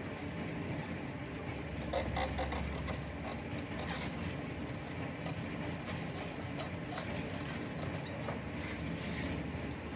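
Scattered light clicks and knocks of fuel pump parts being handled, over a steady background hum.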